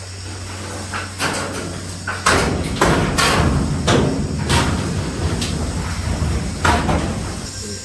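A series of about eight irregular knocks and clattering bangs, the loudest from about two seconds in, over a steady low hum.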